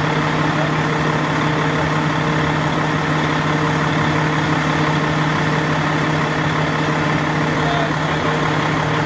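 An engine idling steadily, a constant low hum over a background of noise.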